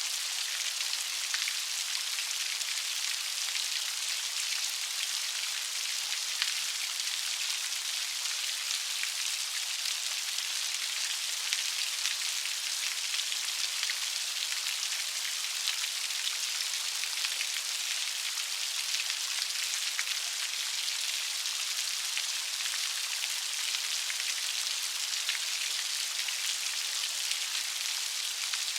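Steady light rain falling on a surface: an even hiss of many small patters, with no thunder.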